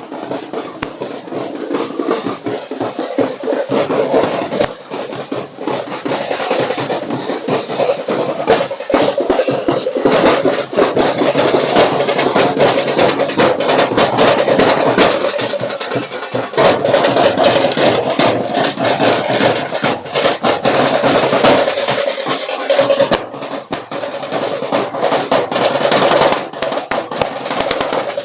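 Street-dance drum band playing: many drums beating a fast, dense rhythm.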